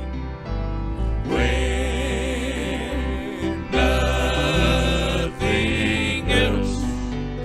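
Gospel hymn sung slowly with long, wavering held notes over instrumental accompaniment with a steady bass line.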